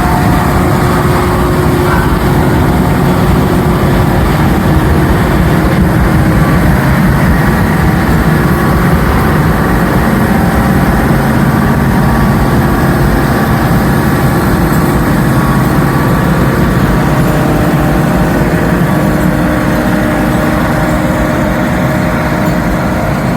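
Silage-cutting machine running steadily and loudly, its engine and spinning blades making one continuous mechanical drone.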